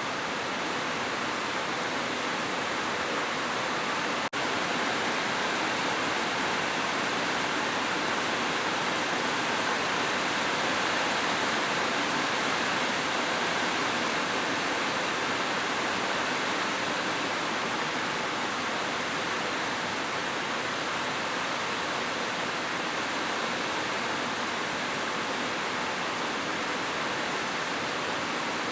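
Heavy rain falling steadily as a dense, even hiss, with a brief dip in level about four seconds in.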